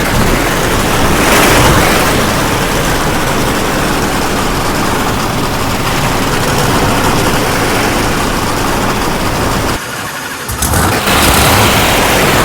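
Monster truck running loudly, a dense engine noise; it drops away briefly about ten seconds in, then comes back.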